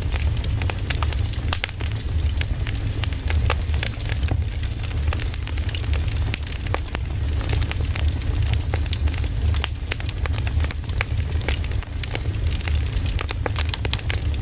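Campfire burning, crackling with many sharp irregular pops over a steady low rumble.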